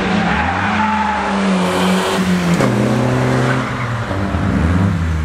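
Car engine revving hard through a drift, held high and then dropping sharply in pitch about halfway through.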